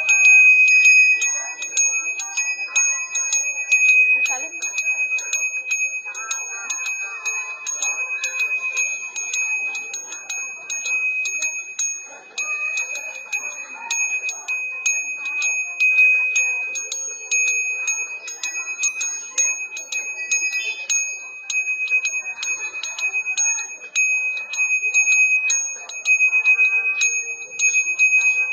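Hindu priest's genta bajra hand bell rung steadily: its clapper strikes the bell several times a second over a high, bright ringing tone that carries between strikes.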